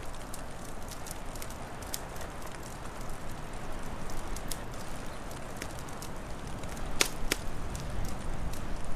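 Wood fire crackling, with scattered small snaps and two sharper pops close together about seven seconds in, over a steady low rushing noise.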